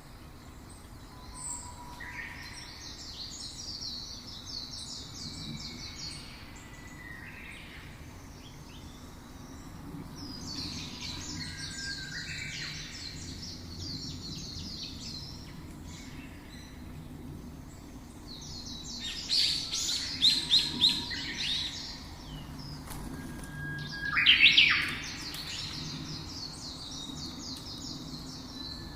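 Songbirds chirping and singing in repeated bouts of rapid high trills, the loudest bouts in the last third.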